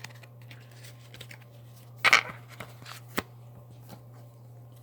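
Tarot cards being handled: a short papery rustle about two seconds in, a few faint scrapes, then a sharp single tap about a second later, over a steady low electrical hum.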